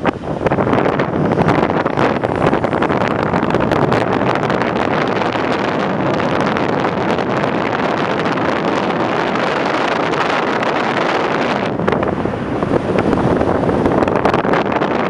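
Heavy wind buffeting the microphone of a moving car, a loud rushing and crackling noise that comes in suddenly at the start, with a brief dip about twelve seconds in.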